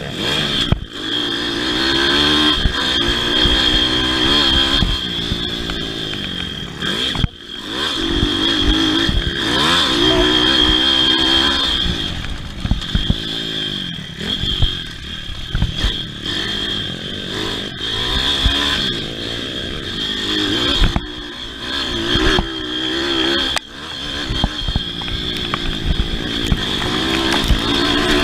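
Pit bike engine revving up and falling back again and again as it is ridden hard, with a steady high whine throughout and a few brief sharp drops in the sound.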